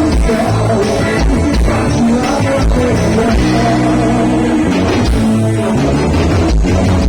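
Loud band music with guitar and a steady drum beat.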